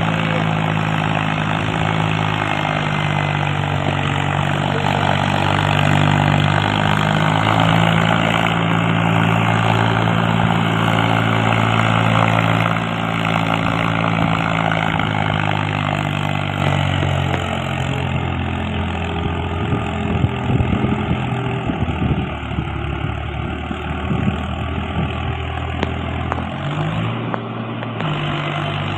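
Mahindra 265 tractor's three-cylinder diesel engine running steadily, its pitch shifting a few times as the engine speed changes.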